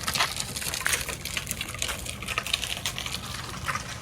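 Strong wind buffeting the microphone: a steady low rumble with dense, irregular crackling on top.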